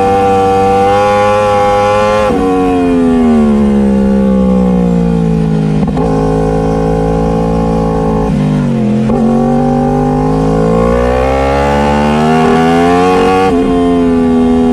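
Motorcycle engine running under way, holding a steady note, then easing off so its pitch falls for a couple of seconds. It dips briefly about nine seconds in, then rises again as it accelerates.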